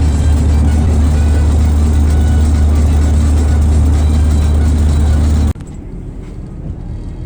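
Steady low drone of a car driving on a highway, heard from inside the cabin. It cuts off abruptly about five and a half seconds in, giving way to quieter road noise.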